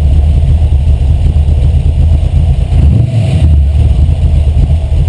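Carbureted Ford 302 (5.0-litre) V8 with a hot cam, running loudly and steadily with a deep low rumble, its sound shifting briefly about three seconds in.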